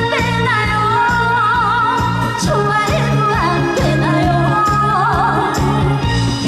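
Korean trot song performed live: a female singer's melody with wide vibrato over an amplified backing track with a steady bass and drum beat.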